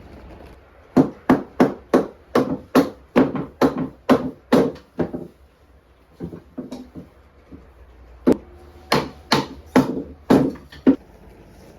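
Hammer striking wood in quick, regular blows, about two or three a second. A run of about ten strikes, a short pause with a few lighter taps, then a second run of about six.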